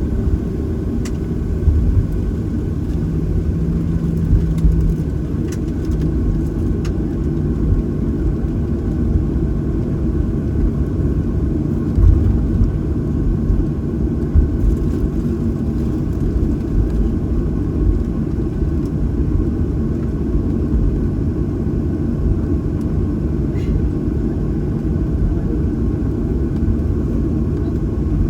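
Steady low rumble inside the cabin of a Boeing 737-800, heard from a window seat behind the wing, with a steady hum and a few faint clicks.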